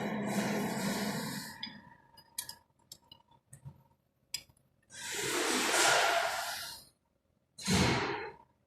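The swapped-in MAN diesel is cranked by its starter without catching; the cranking stops about a second and a half in. A few clicks follow, then two loud hissing bursts.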